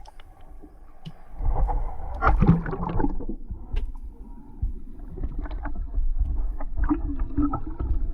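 Water sloshing and wind rumbling on the microphone aboard a boat, with scattered small knocks and splashes.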